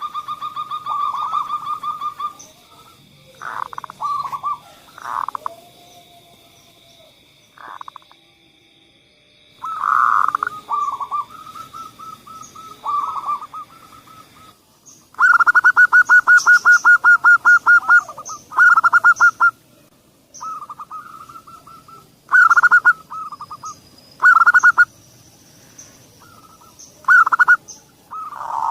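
Zebra doves (perkutut) cooing in repeated bouts of rapid, rattling notes, with the longest and loudest run about 15 to 18 seconds in. A steady high-pitched trill sounds beneath the calls and stops about halfway through.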